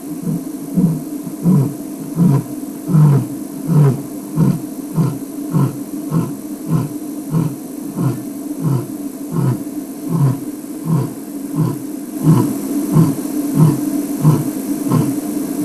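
Male lion roaring: a long run of deep, rhythmic grunting roars, about two a second, his call signalling his presence to his pride and to other lions in the area. A steady hum runs underneath.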